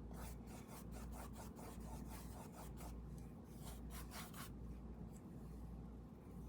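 Paintbrush rubbing paint onto a canvas: faint, quick back-and-forth strokes that die away about four and a half seconds in, over a low steady hum.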